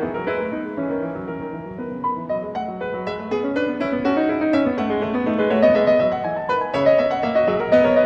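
Background piano music: a melody of struck notes with chords.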